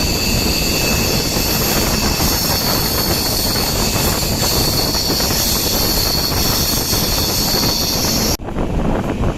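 Passenger train running along the track: a steady, loud rumble with a constant high whine over it. It cuts off abruptly a second before the end, giving way to a quieter rush of wind.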